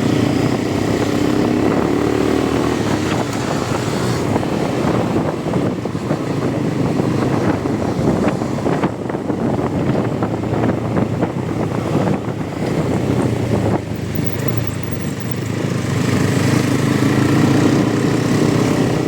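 Motorcycle engine running steadily while riding along, heard from the bike.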